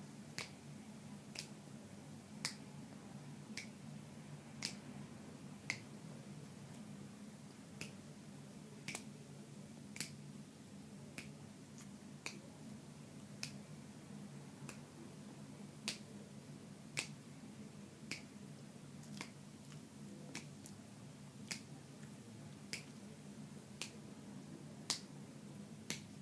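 Chewing close to the mouth, with a sharp wet click from the mouth about once a second in an even rhythm, over a low steady hum.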